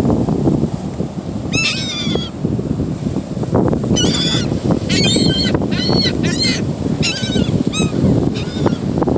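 Gulls calling again and again in short, harsh bouts, several birds overlapping, over a steady rush of wind and surf.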